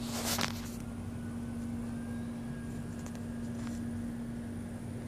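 A steady low hum holding one pitch, with a brief rustle at the start and a few faint clicks.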